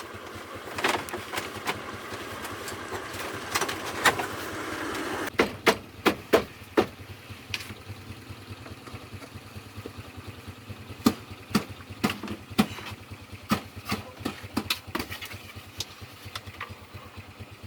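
Truck engine idling steadily, with sharp knocks and clanks cutting in over it, in clusters about a third of the way in and again past the middle.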